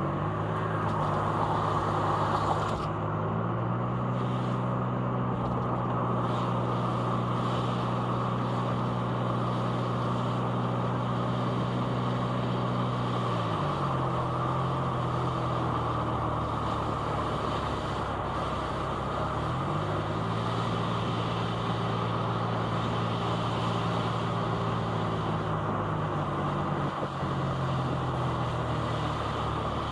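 Car engine running under a steady hiss of tyre and road noise while driving, heard from inside the cabin. The engine note drops about halfway through, picks up again a few seconds later, and eases off once more near the end.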